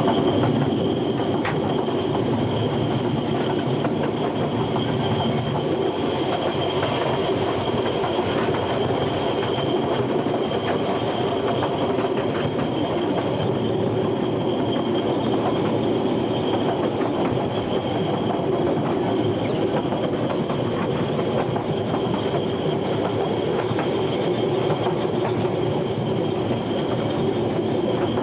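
Narrow-gauge Ffestiniog Railway train running, heard from on board: a steady rumble of wheels on rail with a constant high squeal over it.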